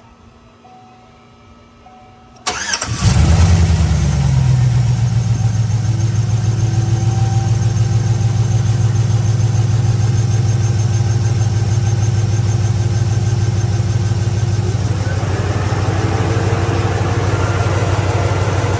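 Car engine cranked by the starter about two and a half seconds in, catching almost at once and settling into a steady, even idle.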